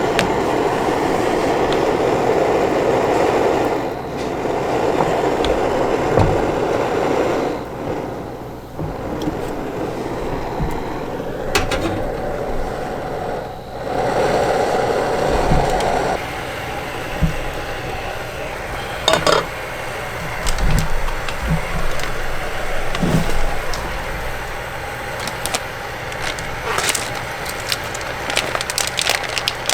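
A steady rumbling noise that fades out about halfway through, followed by scattered light clinks and knocks.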